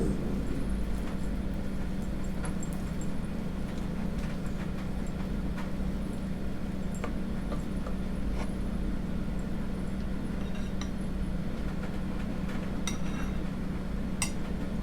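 Spoon clinking now and then against a porridge bowl, the clearest clinks near the end, over a steady low hum.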